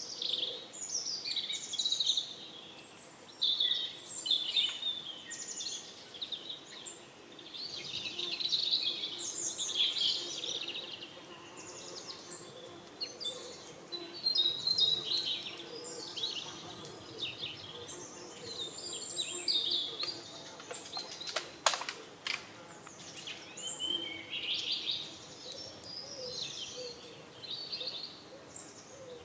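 Many small birds chirping and twittering at once, short overlapping calls and trills that go on without a break. A single sharp click comes about two-thirds of the way through.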